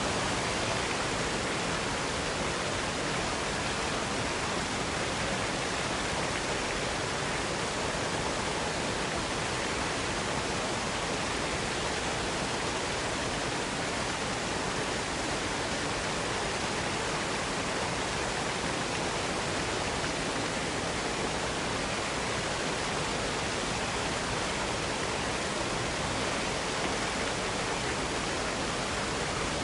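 Waterfall cascade rushing steadily, an even roar of falling water with no breaks or changes.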